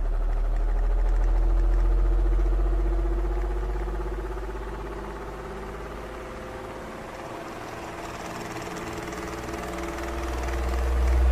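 Electric fan running: a steady motor hum with a low drone and a whirring tone, swelling and fading slowly in loudness.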